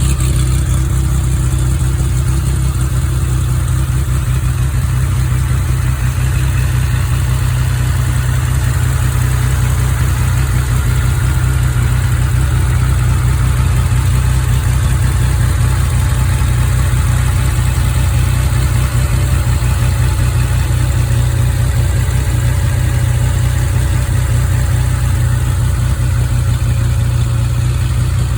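Engine idling steadily, with a deep, even running note that holds without revving.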